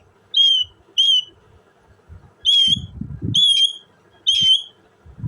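Indian ringneck parakeet giving five short, clear whistled calls, each on a steady pitch with a slight upward flick, spaced out over a few seconds.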